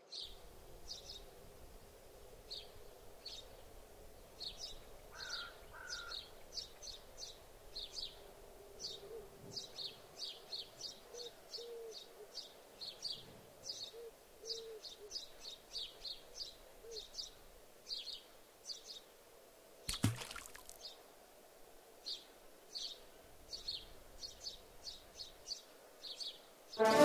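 Birds chirping outdoors: many short, high chirps at an irregular pace, one or two a second, over a faint background hiss. A single sharp knock about twenty seconds in is the loudest sound.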